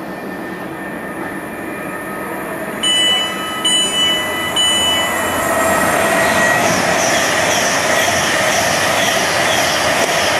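Virgin Trains Class 390 Pendolino electric train sounding its horn in three short blasts as it approaches. It then runs through the station at speed, with a loud rush of wheels and air that builds over the second half.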